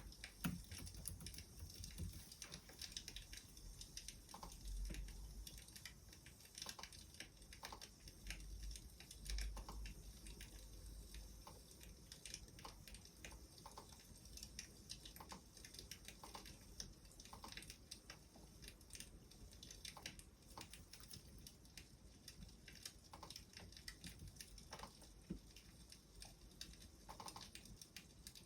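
Faint crackling of a wood fire: a scatter of light, irregular clicks and pops.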